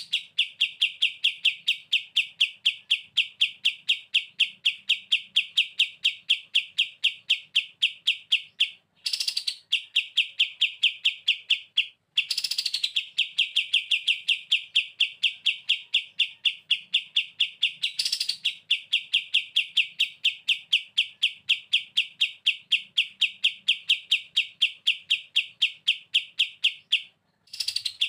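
Kapas tembak songbird singing a fast, rattling 'ngebren' trill of evenly repeated notes. The trill breaks off briefly about a third of the way in, again shortly after, and near the end, and a sharper, louder note comes at several of the restarts.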